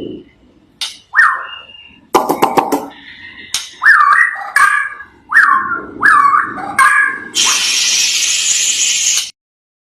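White-rumped shama (murai batu) calling: a string of short whistled notes that swoop down and back up, with a few sharp clicks among them. About seven seconds in, a harsh hissing burst lasts nearly two seconds, then the sound cuts off suddenly.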